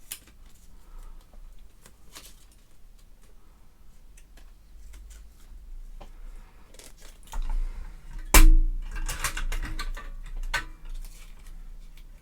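Hard objects being handled: scattered clicks and light knocks, then a loud knock about eight seconds in followed by a couple of seconds of metallic rattling and clinking, as of a metal drill-bit case and its bits being handled.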